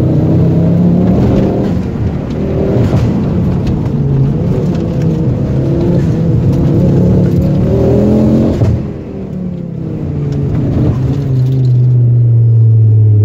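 Ford Focus RS Mk2's turbocharged five-cylinder engine, heard from inside the cabin, running hard with the revs rising and falling. About nine seconds in the engine note drops off sharply and the revs sink away, then it pulls strongly again near the end.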